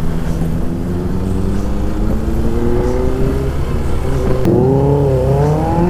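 Motorcycle engine running while riding, its note climbing slowly as the bike accelerates. Near the end the pitch dips and rises again, as with a change of throttle or gear.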